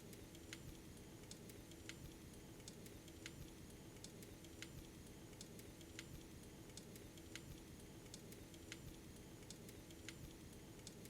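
Faint wood fire crackling in a fireplace, irregular small pops and snaps over a steady low hum.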